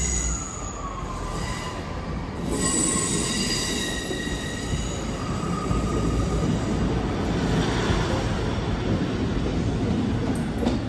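Class 150 diesel multiple unit passing along the platform, its wheels squealing in several high, thin tones that come and go over the running rumble of the train.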